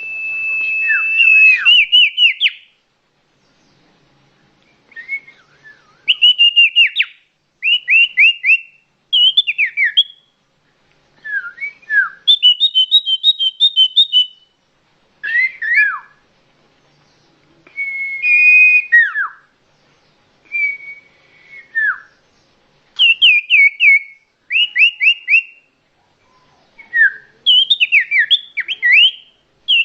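Common iora (cipoh) calls played as a bird-trapping lure: clear, loud whistles in short bursts. Some are held steady, some sweep downward and some are quick repeated notes, with brief silent gaps between phrases.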